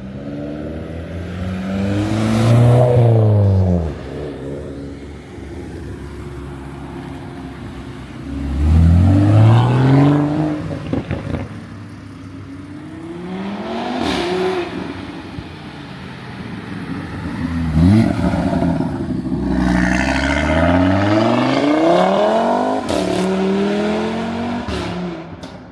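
Modified cars accelerating hard away from a car meet. The engine notes rise and fall in several separate pulls, the loudest about 2 to 4 seconds in and again about 9 to 10 seconds in, with a long rising pull near the end.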